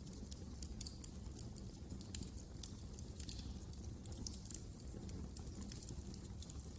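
Wood fire crackling in a fireplace: an irregular run of small sharp pops and snaps over a low, steady rumble.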